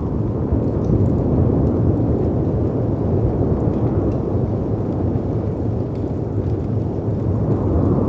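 Layered storm ambience: a deep, rumbling rush of howling wind and crashing sea waves that swells and eases slowly, with faint scattered crackles and pops from a fireplace.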